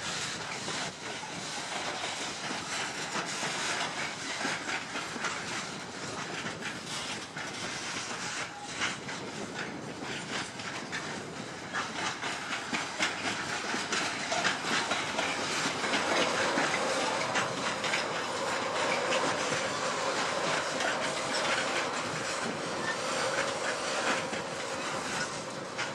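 Container freight train's loaded flat wagons rolling past, a continuous rumble and rush with wheels clicking over the rail joints; it grows a little louder about two-thirds of the way through.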